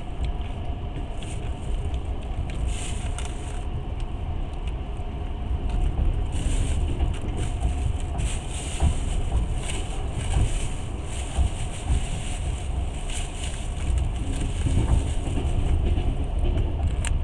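Passenger train running, heard from inside the carriage: a steady low rumble of wheels on the track, with rushes of hiss that rise and fade every few seconds.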